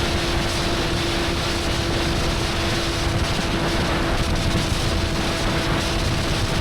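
Honda inline-four sport motorcycle cruising at a steady speed. It holds one even engine note with no revving, under heavy wind rush on the microphone.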